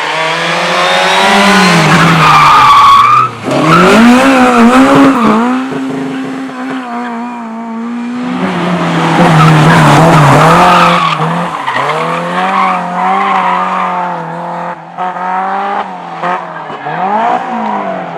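Race car engine revving up and down as the car is driven hard, with tyres squealing and skidding in two long stretches: through about the first three seconds and again from about eight to eleven seconds.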